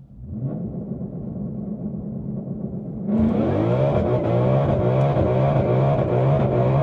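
High-performance car engine pulling away, heard from inside the car. About three seconds in it goes to full throttle and holds a loud, steady pull.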